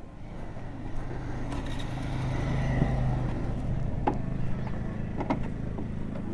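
Motorcycle engine idling steadily, its hum swelling a little two to three seconds in, with a couple of short sharp clicks later.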